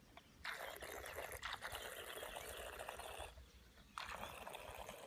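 Faint churning and trickling of water from a remote-controlled bait boat's propellers. It runs in two spells, stopping briefly about three seconds in and starting again a second later.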